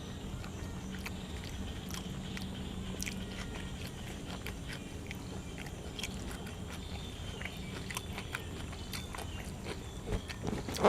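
A person biting and chewing cuttlefish and fresh vegetables close to the microphone: a run of short, crisp clicks, with one louder knock near the end.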